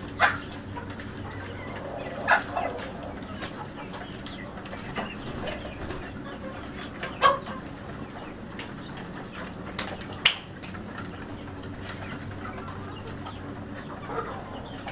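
Chickens clucking, with a few short, sharp sounds louder than the rest scattered through, over a steady low hum.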